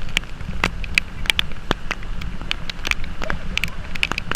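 Raindrops pattering as irregular sharp clicks, over a steady low rumble.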